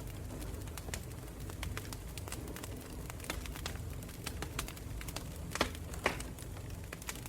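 Wood campfire burning: a steady low rumble of flames with frequent sharp crackles and pops of burning wood, two louder pops about five and a half and six seconds in.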